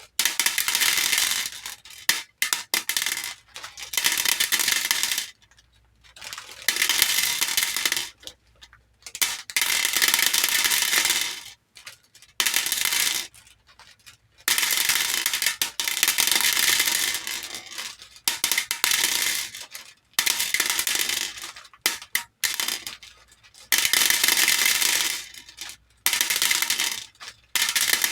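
Handfuls of small plastic hair beads poured into a bowl and clattering against it, in repeated rushes of dense clicking that last from one to a few seconds, with short pauses between pours.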